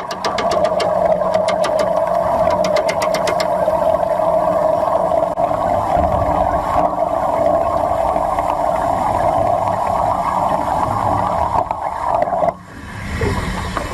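Underwater stick (SMAW) welding arc burning with a steady buzzing hiss, with a run of sharp crackling clicks in the first few seconds, cutting off abruptly about twelve and a half seconds in as the arc is broken.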